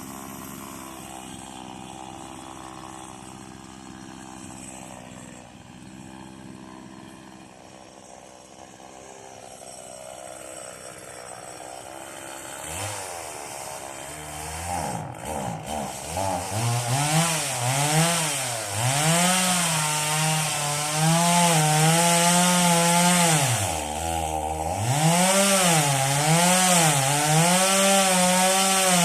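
Stihl two-stroke chainsaw idling steadily, then throttled up about halfway through. At high revs it runs loud, its pitch repeatedly dipping and recovering as the chain bites into the wood.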